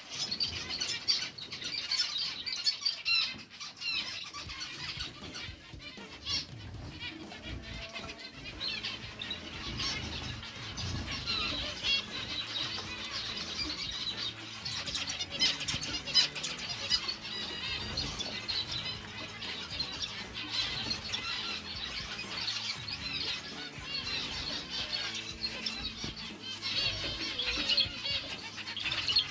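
A flock of kept birds calling constantly, a dense high-pitched chatter of squeals and chirps, over background music.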